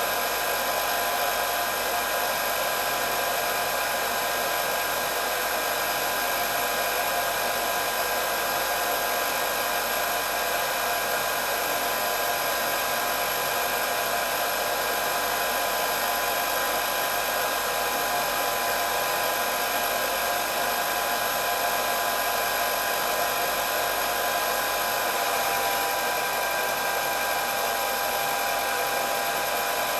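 Electric hair dryer running steadily: a continuous rush of blown air with a steady high motor whine over it.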